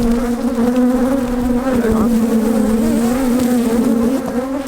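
Many honeybees buzzing around an opened hive: a loud, steady drone of overlapping wavering pitches.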